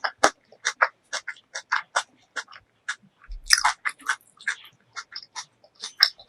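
Close-miked eating sounds of spicy ramen noodles and kimchi: wet chewing and mouth smacks come in quick short bursts, about three or four a second, with a louder cluster about three and a half seconds in.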